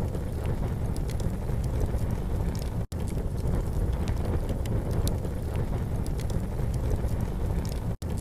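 Campfire crackling with scattered sharp pops over a steady low rumble of wind on the microphone. The sound cuts out for an instant twice, about three seconds in and near the end.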